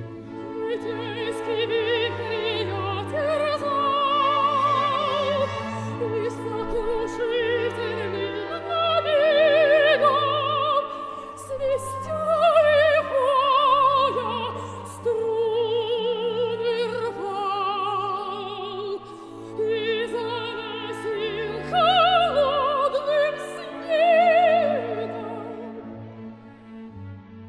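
A soprano singing a Russian romance in operatic style with wide vibrato on long held notes, over a chamber orchestra's sustained string accompaniment. The phrases climb to loud high notes in the second half and die away near the end.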